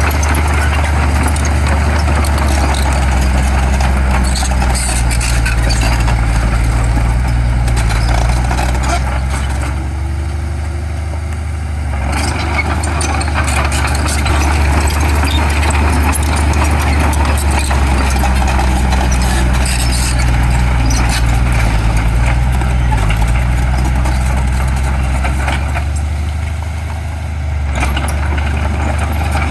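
Heavy construction machine's diesel engine running with a steady low drone and a gritty clatter over it. The sound eases briefly twice, about ten seconds in and again near the end.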